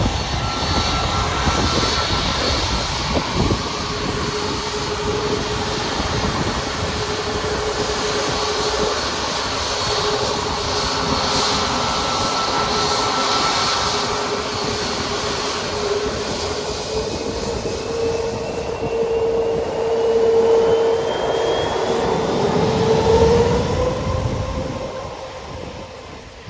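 Jet aircraft engines running loud, with a steady whine over a heavy rush of noise. In the second half a higher whine climbs slowly in pitch and the engines grow louder, then the sound falls away near the end.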